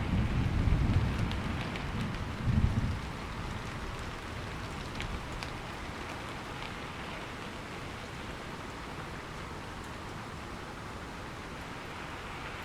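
Steady rain falling, with the last of a thunder rumble dying away in the first few seconds.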